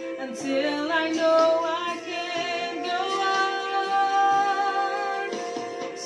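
Singing with musical accompaniment, the voice holding one long note from about three seconds in until just past five seconds.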